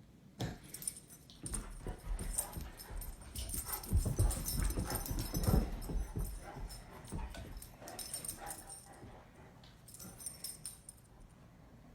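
Saint Bernard making dog sounds during rough play, with scuffling and low thumps, loudest around the middle and dying away near the end.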